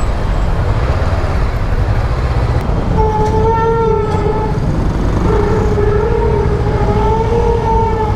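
Honda CBR500R parallel-twin engine pulling hard under acceleration, over heavy wind rumble. About three seconds in, a steady engine note rises out of the rumble. It breaks off briefly near the middle, comes back a little lower as for a gear change, and then climbs again.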